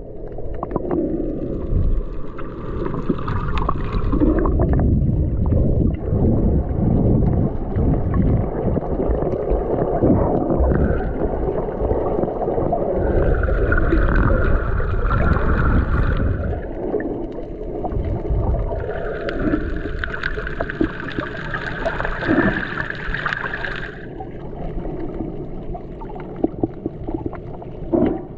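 Water rushing and sloshing past a boat's hull under way, with wind rumbling on the microphone. A higher hiss swells and fades three times.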